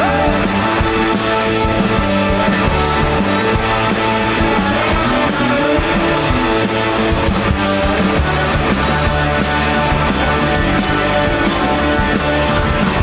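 Live rock band playing an instrumental passage, electric guitars over bass and drums.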